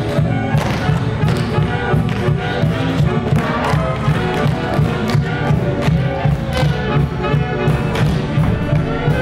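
Brassy show-tune accompaniment with tap dancing over it: tap shoes striking a stage floor in quick, rhythmic clusters.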